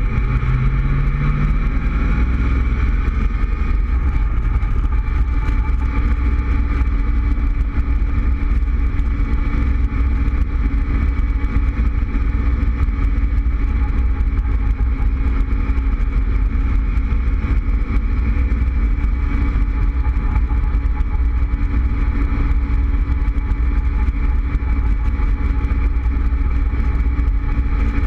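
Cobra roadster's engine pulling under way, its pitch rising over the first couple of seconds and then holding steady at a cruise. Wind buffets the microphone throughout in the open cockpit.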